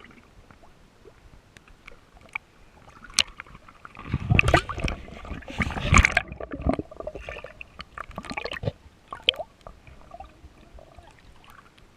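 Shallow water splashing and sloshing as someone wades and feels around in it, loudest from about four to seven seconds in, with scattered small clicks and knocks before and after.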